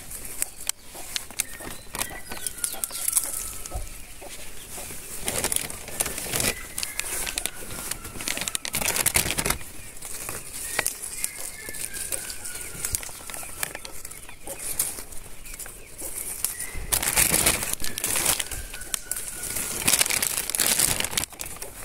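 A bird calling again and again with a clear whistle that slides down in pitch, about every four to five seconds, over rustling and crackling of leaves and branches as acerola fruit is picked from the bush.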